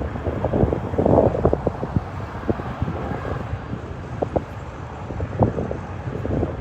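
Cargolux Boeing 747 freighter's jet engines rumbling and crackling on takeoff, with wind buffeting the microphone.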